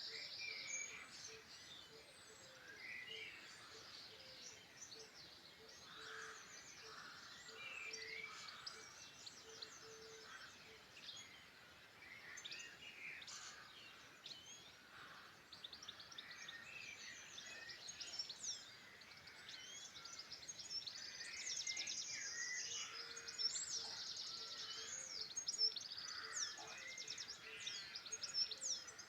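Several wild songbirds singing and calling at once, a steady chorus of overlapping whistles, chirps and trills, with faster trills bunching up about three-quarters of the way in. A faint low note repeats evenly beneath the songs for the first third and again near the end.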